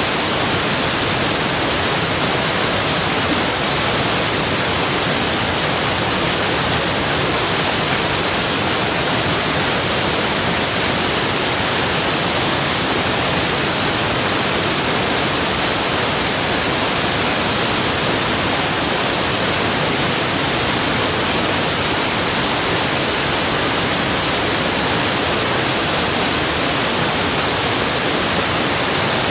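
Rushing water: a steady, even hiss that does not change.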